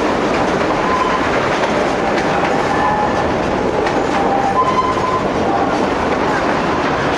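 Durango & Silverton narrow-gauge train running along the track: a loud, steady rumble and clatter of wheels on rail, with a few brief high squeaks from the wheels.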